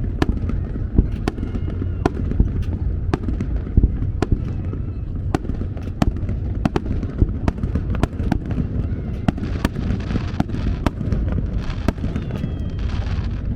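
Fireworks bursting in quick succession: a steady stream of sharp bangs, two or more a second, over a continuous low rumble of shell blasts. A hiss joins in near the end.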